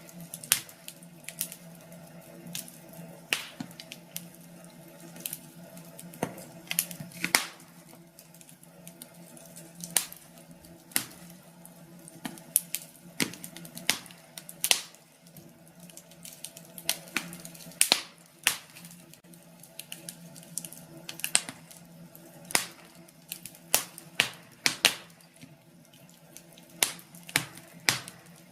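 Wood fire in a fireplace crackling, with irregular sharp pops and snaps over a faint steady low hum.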